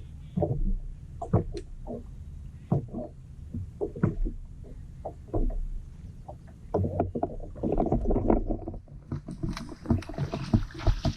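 Pedal fishing kayak: irregular knocks and clunks against the hull over a low rumble, with a rushing hiss building near the end.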